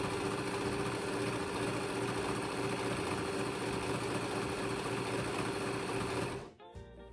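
Brother 1034DX serger running steadily at speed, stitching a test seam on fabric, then stopping sharply about six seconds in.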